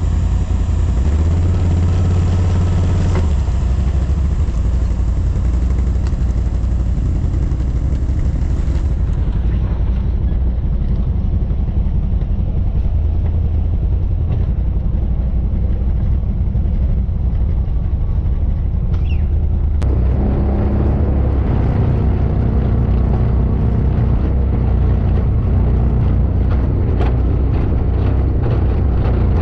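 Quad bike (ATV) engine running at steady low revs, heard from on or near the machine, with its pitch shifting a few times.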